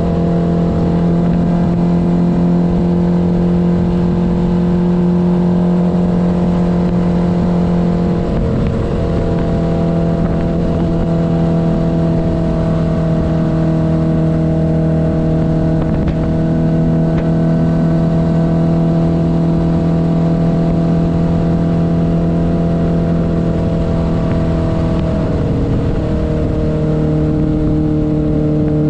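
1972 Honda CB500's air-cooled inline four-cylinder engine running steadily while being ridden, with a change in pitch about eight seconds in and a drop in pitch near the end.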